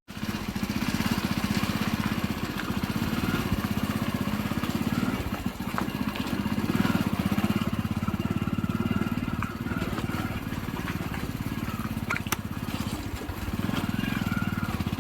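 A small road vehicle's engine running steadily while driving, with a short click about twelve seconds in.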